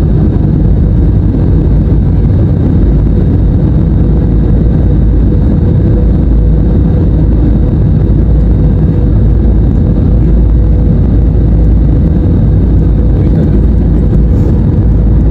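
Airliner cabin noise in flight: a loud, steady rumble of engines and airflow with a faint steady hum over it.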